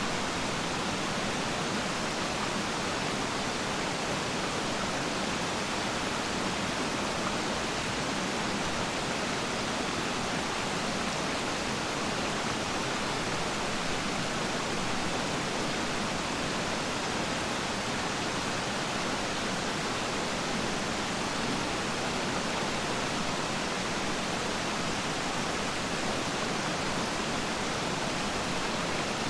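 Steady, unbroken rush of water from a waterfall: a dense, even hiss with no single splashes standing out.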